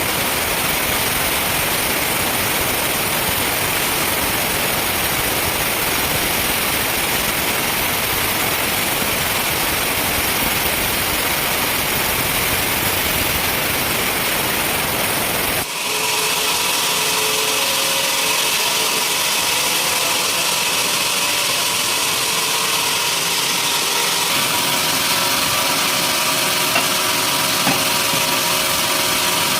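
Sawmill machinery running steadily. About halfway through the sound changes abruptly from a dense, even sawing noise to a steadier machine hum with several held tones.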